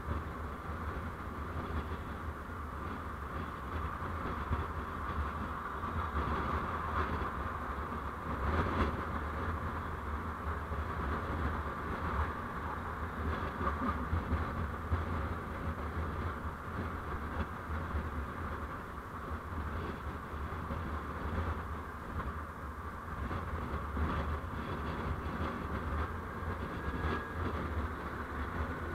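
Steady road and engine noise of a vehicle on the move, with a constant low hum underneath, as picked up by an onboard driving recorder. A brief knock stands out about nine seconds in.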